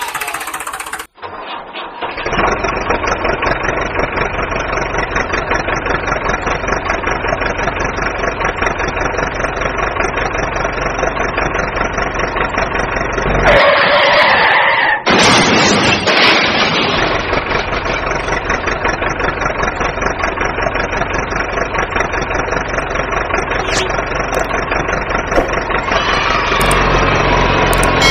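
Vehicle engine sound effect running steadily with a fast, even pulse. It starts about two seconds in after a brief cut, and has a short, louder, brighter patch around the middle.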